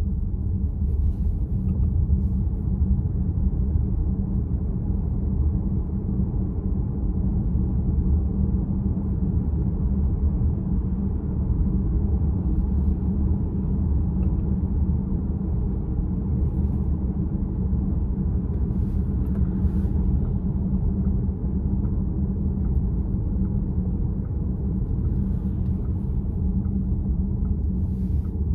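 Steady road and tyre rumble inside the cabin of a VW ID.4 electric SUV while driving.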